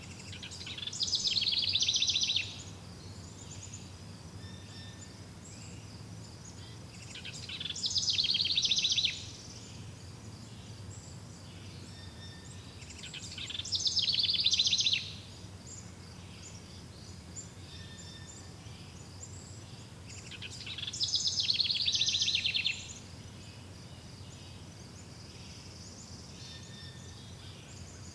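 A songbird singing the same fast trilled phrase four times, about every six to seven seconds; each phrase swells louder and then stops abruptly. A steady faint high chirring runs underneath.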